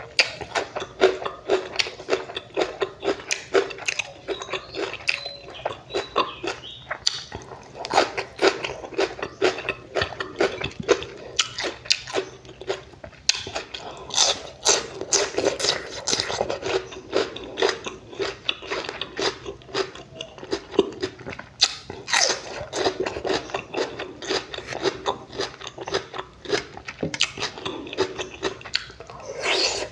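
A person chewing and smacking food close to the microphone, with many small wet mouth clicks and an occasional crunch, several a second throughout.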